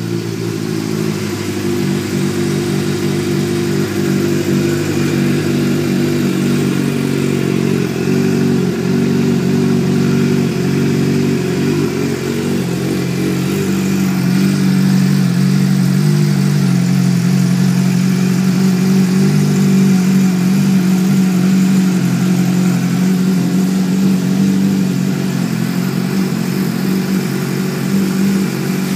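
2009 Suzuki GSX-R600's inline-four idling steadily through a Yoshimura R55 exhaust, growing a little louder from about halfway.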